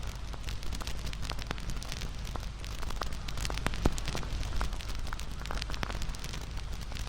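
Wood campfire burning, with a low steady rumble of the flames and irregular sharp crackles and pops of the burning wood, one louder pop a little after the middle.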